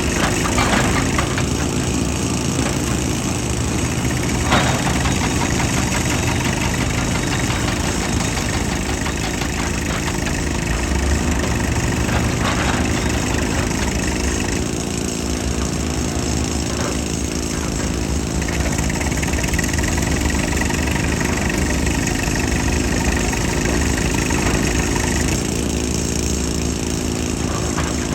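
Excavator's diesel engine running steadily, with a few sharp knocks and, for several seconds in the second half, a steady high whine over the engine.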